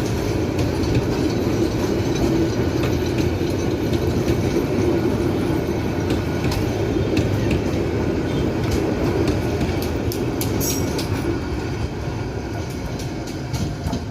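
Freight train wagons rolling past on steel rails: a steady rumble with scattered clicks from the wheels over rail joints, and a brief high wheel squeal about ten seconds in.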